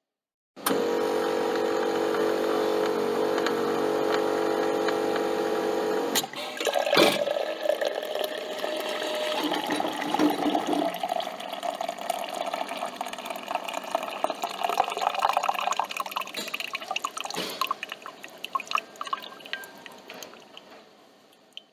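Home coffee machine at work: a steady motor hum for about five seconds stops with a click, then after a sharp knock comes an irregular run of liquid noise that slowly fades out.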